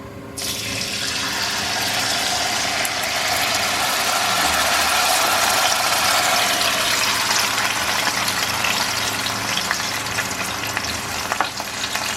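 Liquid poured into a hot frying pan coated with browned chicken drippings, sizzling loudly from about half a second in and going on steadily as it cooks down into a sauce, with a few faint clicks of a utensil on the pan.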